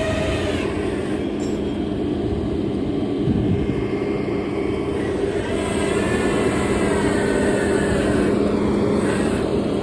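A tow truck's engine running steadily at idle, a constant low drone with an even hum.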